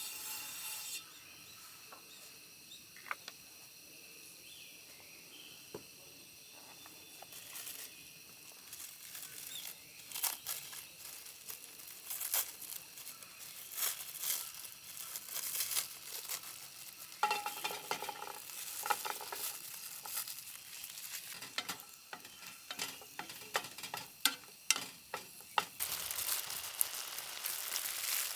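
Food sizzling in a frying pan while it is stirred, with frequent clicks and scrapes from the utensil. The sizzle grows louder and steadier near the end.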